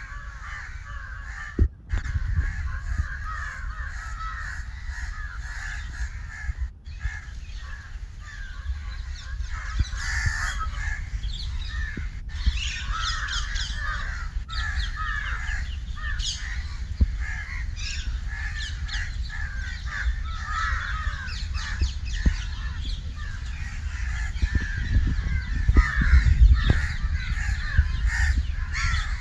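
Crows cawing, many calls overlapping in a dense continuous chorus, over a low rumble.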